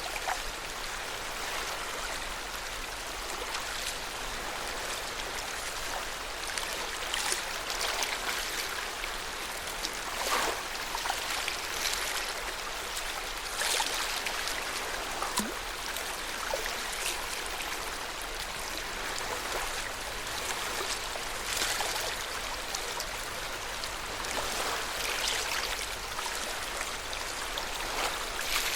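Lake water lapping steadily at the shore, with a brief louder splash every few seconds.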